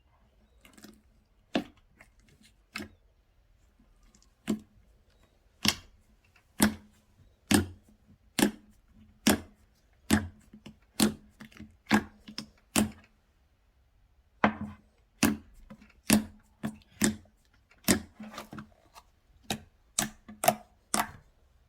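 Slime being pressed and poked by hand, giving a run of sharp popping clicks roughly once a second, with a short pause about two thirds of the way through.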